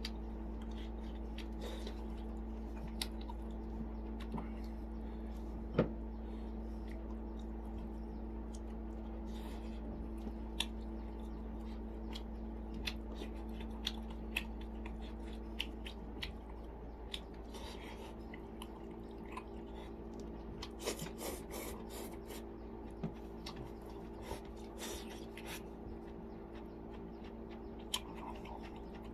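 Close-up eating sounds: chewing with scattered wet clicks and lip smacks, over a steady low electrical hum.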